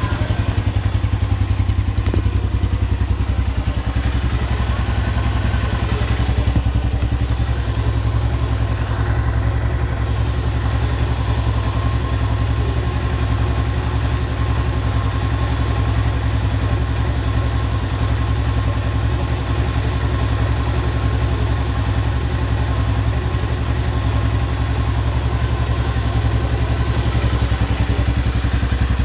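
Honda Phantom 200's single-cylinder four-stroke engine idling steadily through its stock exhaust, an even low exhaust note with no revving.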